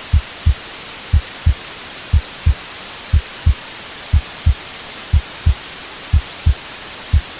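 Heartbeat sound, a low double thump (lub-dub) about once a second, over a steady white-noise hiss.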